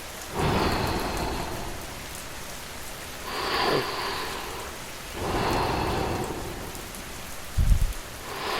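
Steady rainfall, rising and easing in several swells, with a short low rumble of thunder about three-quarters of the way through.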